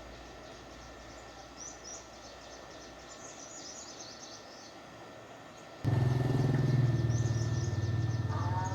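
Faint birds chirping, then about six seconds in a loud, steady low hum starts abruptly, typical of a powered speaker or amplifier being switched on and buzzing.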